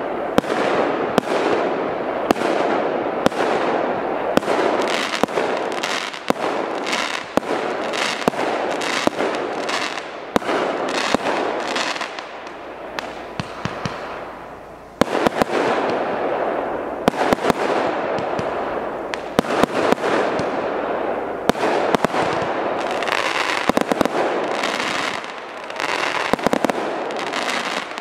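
A consumer firework battery firing a rapid run of shots, with sharp reports and dense crackling. It thins to a lull about halfway through, then fires hard again until it stops near the end.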